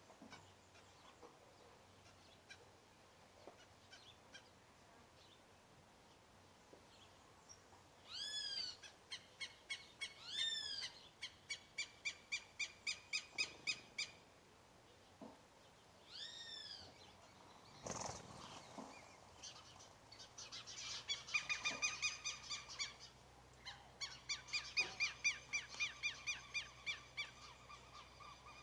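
Birds calling: after a few quiet seconds, a couple of arching, up-and-down calls, then fast runs of repeated short notes, several a second, that come back twice more near the end. A single knock sounds about halfway through.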